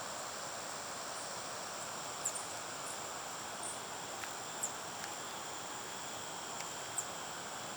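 Forest-edge ambience: insects keeping up a steady high-pitched drone over an even background hiss, with a few short high chirps every second or two.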